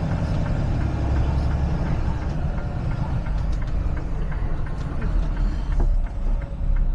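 Semi-truck's engine and road noise heard inside the cab: a steady low rumble with a few faint clicks.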